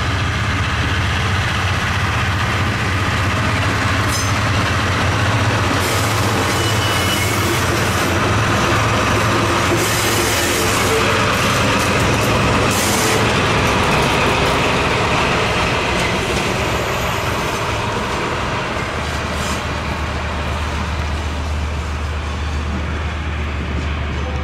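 Slow-moving train of 12-series passenger coaches with a DE15 diesel locomotive, shunting through a station. The locomotive's diesel engine hums low and steady, growing stronger near the end as the locomotive comes by, over rolling rail noise with a few sharp knocks from the wheels and a short squeal.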